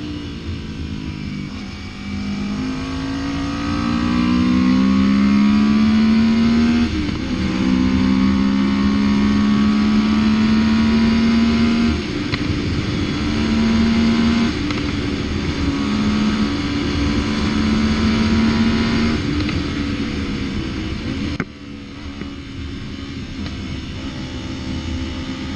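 Yamaha MT-03 motorcycle engine under way. Its note climbs for the first several seconds, dips at a gear change, then holds with small rises and falls, and drops off sharply near the end as the throttle closes.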